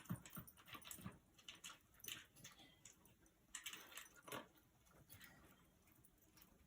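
Small dog eating dry kibble from a bowl: faint, irregular clicks and crunches of kibble being picked up, chewed and knocked against the bowl.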